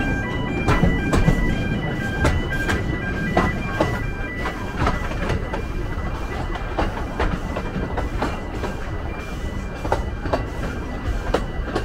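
Narrow-gauge train running along the track: a steady rumble with the wheels clicking irregularly over the rail joints. For the first few seconds there is also a broken, high-pitched tone.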